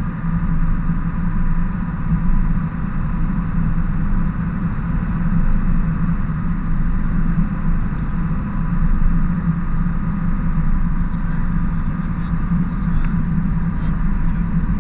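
Ford F-350 work truck driving, its engine and road noise a steady drone heard inside the cab, with a few faint ticks near the end.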